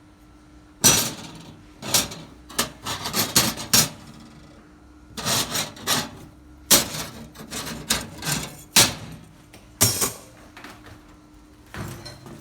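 A run of irregular knocks and clatters, hard objects being struck or handled, over a steady machine hum.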